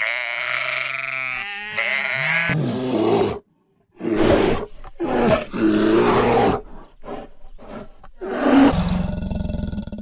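A flock of sheep and goats bleating for about the first two seconds, then a polar bear growling: a series of rough growls broken by short pauses.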